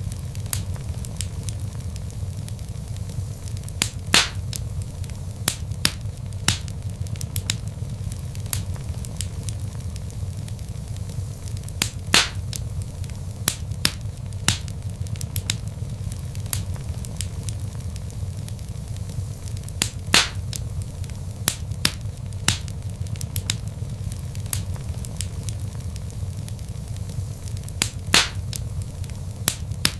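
Log fire crackling: a steady low rumble of flames with irregular sharp pops and snaps, a few of them louder and spaced several seconds apart.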